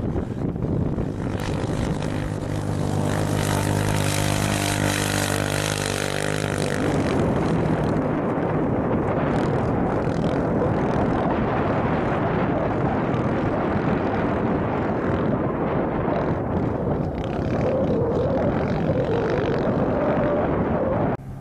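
An engine holds a steady pitch for several seconds, then gives way to heavy wind buffeting the microphone, with a wavering engine note rising and falling near the end.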